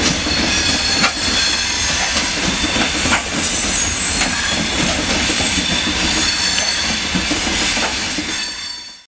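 Freight train of open gondola wagons rolling past close by: a steady rumble and clatter of wheels on the rails, with a high squeal of wheels on rail and two sharp metallic clanks, about one and three seconds in. The sound fades and cuts off just before the end.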